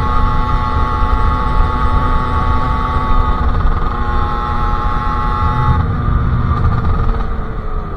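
Sherco SM-R 50's 50cc two-stroke engine through a KRM exhaust, running at steady revs while riding, then easing off with the pitch falling near the end.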